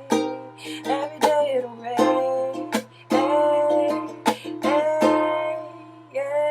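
Ukulele strummed in a steady rhythm, with a woman's voice holding long, wavering sung notes without clear words over it.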